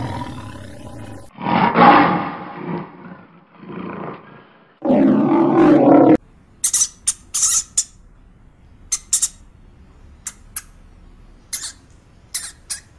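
Lion roaring and growling in several drawn-out, rough calls that stop about six seconds in. A run of short, high squeaks from a hamster follows.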